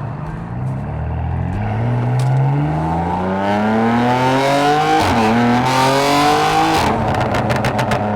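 Catless, 750 hp BMW M4's twin-turbo straight-six pulling hard under full throttle. The engine note climbs steadily, dips once at an upshift about five seconds in, then climbs again. It ends in a quick string of exhaust pops as the throttle closes, then settles back to a steady cruise.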